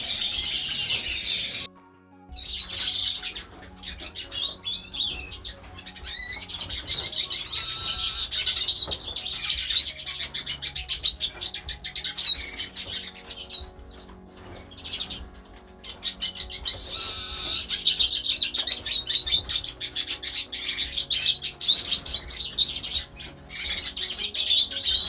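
Caged finches, the siskins, redpolls and canaries of a birdroom, chirping and twittering together in a dense, continuous chorus, with a brief break about two seconds in.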